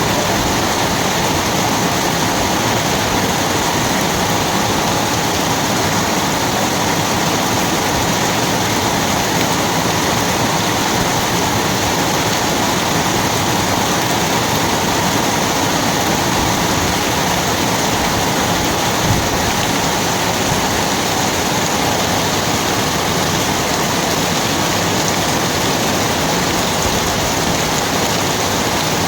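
Rain falling steadily: a dense, even hiss that holds unchanged throughout.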